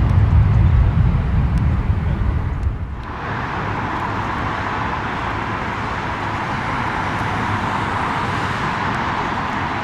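Deep jet-engine rumble of a departing airliner, fading over the first three seconds. About three seconds in it gives way abruptly to a steady, higher-pitched hiss of engine noise with a faint held tone.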